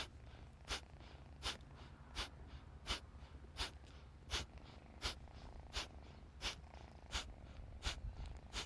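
Kapalabhati breathing: short, forceful exhalations through the nose, about three every two seconds in an even rhythm, each followed by a passive inhale. A steady low hum runs underneath.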